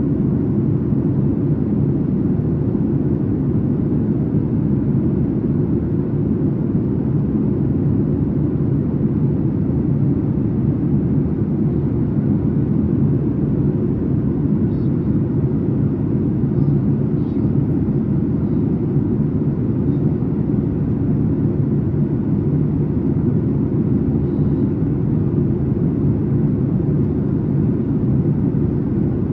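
Cabin noise of a Boeing 737 MAX 8 in flight: a steady low rumble of its CFM LEAP-1B engines and the airflow past the fuselage, heard from a window seat.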